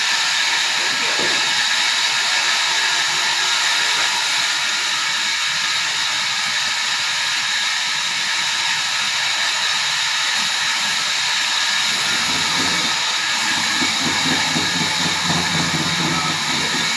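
Sawmill machinery running steadily: a constant loud hiss with steady high whining tones. A lower, uneven sound joins about twelve seconds in.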